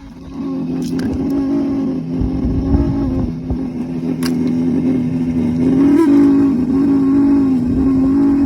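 BMW F-series heater blower motor running with the engine off, giving a loud, steady hum that wavers slightly and starts about a third of a second in. The noise comes from its lower bearing, which has failed after sitting in water from blocked drains.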